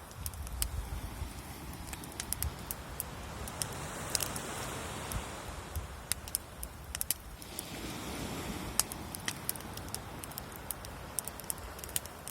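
Wood bonfire crackling, with many irregular sharp pops and snaps over a low, steady background noise.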